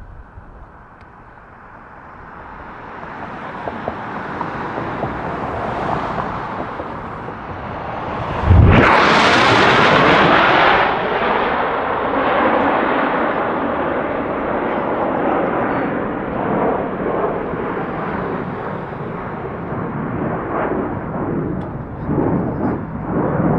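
Military jet flying past low. Its engine noise swells over several seconds and jumps suddenly to its loudest about eight and a half seconds in as it passes close. It then stays loud to the end, with a sweeping, shifting tone as it goes away.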